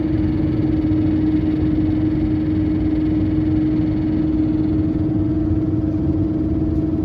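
Cabin noise inside an Airbus A319-100 on descent: a steady rumble of engines and airflow, carrying a constant droning tone that does not change. This is the odd sound the passenger heard throughout the flight.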